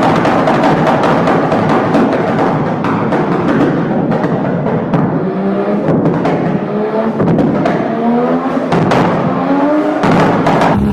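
Car engine revving hard, its pitch rising several times in a row in the second half, with sharp exhaust pops and crackles of backfire throughout, mixed with background music with drums.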